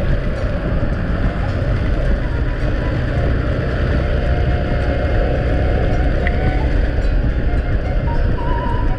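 Steady rumble and road noise of a moving vehicle, unbroken and even in level.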